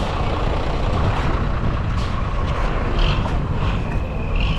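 Motor vehicle running, a steady loud rumble with scattered rattles and clicks, and brief high squeaks about three seconds in and near the end.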